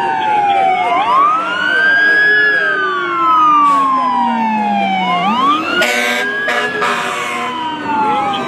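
Fire apparatus sirens wailing, several overlapping and each rising quickly and falling slowly, with two short horn blasts about six seconds in.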